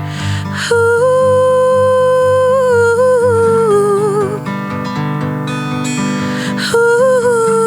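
Acoustic guitar strumming under a wordless sung vocal. A long held note comes in about a second in, wavers and steps down, and another starts near the end.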